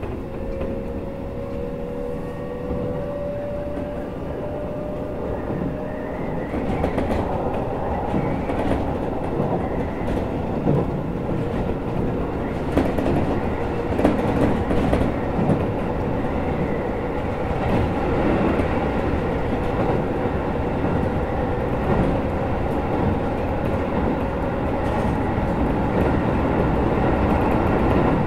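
Keisei 3000 series electric train heard from inside the car, pulling away and gathering speed. A motor whine rises slowly in pitch over the first few seconds. It then gives way to wheel-and-rail running noise with irregular clacks over rail joints, growing louder as the train speeds up.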